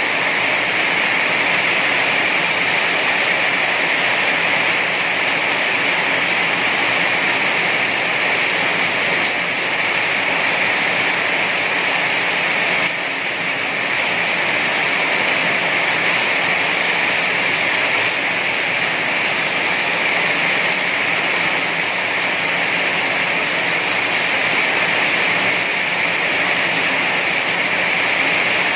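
Heavy rain falling steadily, a dense, even hiss of water with no let-up.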